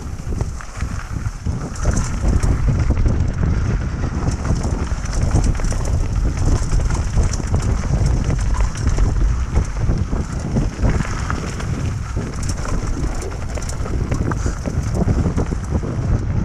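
Wind rumbling on a GoPro microphone during a mountain-bike descent, with dense clicking and rattling from the bike on a rough dirt trail.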